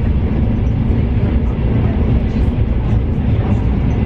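Passenger train running, heard from inside the carriage: a loud, steady low rumble.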